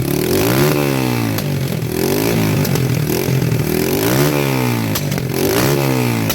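Beta RR125 enduro motorcycle engine being revved in short blips, its pitch rising and falling back about four times, with a few brief sharp crackles near the tops of the revs.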